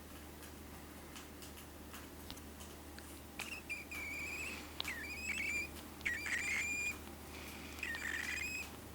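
A 15-day-old pet bird chick calling: a run of about five short, squeaky high-pitched chirps starting about three and a half seconds in, some drawn out and ending with a quick upward twist, after a few faint ticks.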